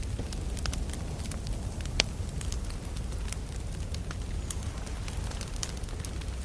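Wood campfire crackling: many irregular sharp snaps and pops of burning wood, the loudest a single pop about two seconds in, over a steady low rumble.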